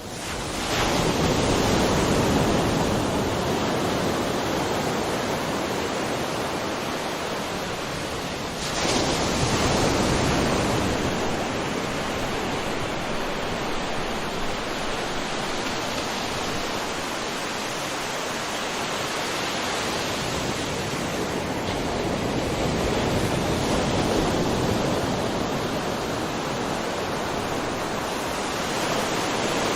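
Ocean waves washing on the shore, a continuous surf rush that swells and eases slowly, with a fresh wave breaking about nine seconds in.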